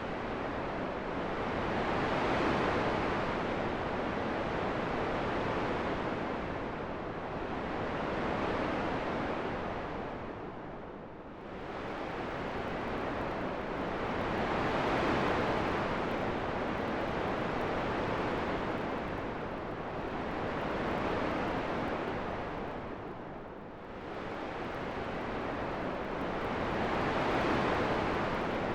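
Wind rushing in slow gusts that swell and ebb every few seconds, easing off briefly twice.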